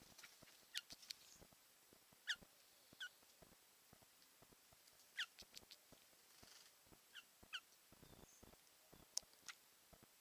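A bird's short, high calls, each sliding down in pitch, given singly or in quick pairs every second or two, with faint clicking in between.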